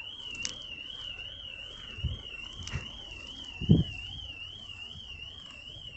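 An electronic alarm sounding a steady high warbling tone that rises and falls about four times a second. A short low thump comes a little past halfway.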